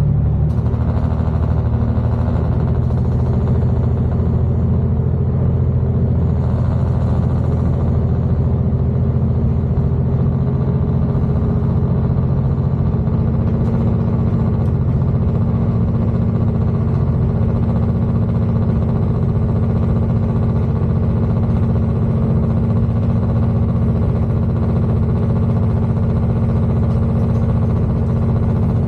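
Class 221 diesel-electric tilting train on the move: its underfloor diesel engine gives a steady low drone over a constant running noise.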